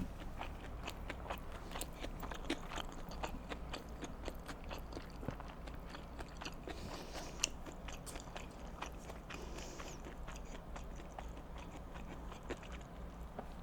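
Close-miked chewing of sushi: a steady run of soft, wet mouth clicks and smacks, with one sharper click about seven seconds in.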